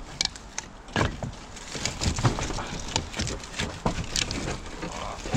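Irregular wooden knocks and clatter of firewood logs shifting as a heavy bag of firewood is handled in a skip.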